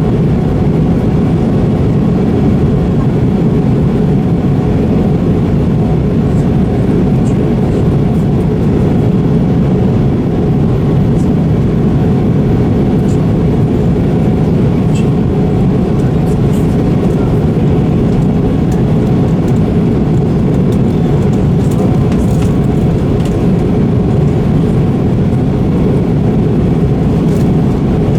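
Airliner cabin noise in flight: the steady, loud rush of jet engines and airflow heard inside the passenger cabin, even and unchanging throughout.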